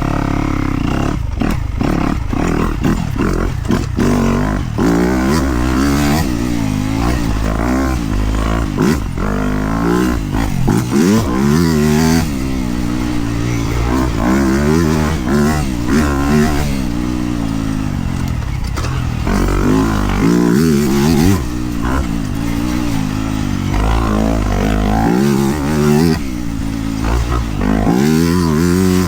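Dirt bike engine on the move, revs rising and falling again and again through the gears, over a steady rushing noise.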